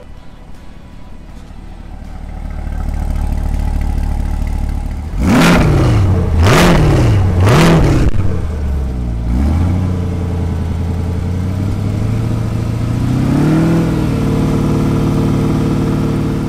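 2021 Chevrolet Corvette C8 Stingray's 6.2-litre LT2 V8 running, its note swelling over the first few seconds. About five seconds in it is blipped three times in quick succession, each rev rising and falling sharply about a second apart. It then settles to a steady idle with a brief lift near the end.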